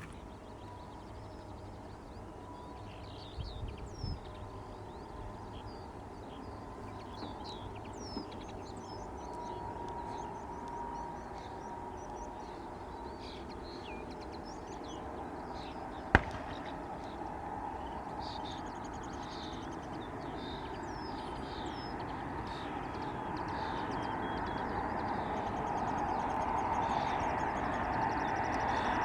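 Small birds chirping over a low hum, while the noise of an approaching jet airliner on final grows steadily louder through the second half. A single sharp click sounds about halfway through.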